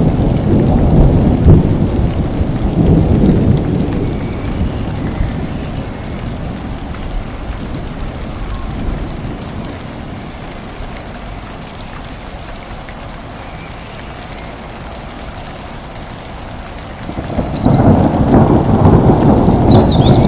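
Steady rain with rolling thunder: a long low rumble fades over the first several seconds, leaving quieter rain, then a new roll of thunder builds about three-quarters of the way through.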